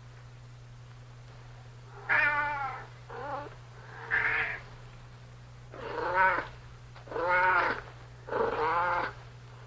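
A domestic cat meowing again and again, about six meows beginning some two seconds in, some short and some drawn out and bending in pitch. A steady low hum runs underneath.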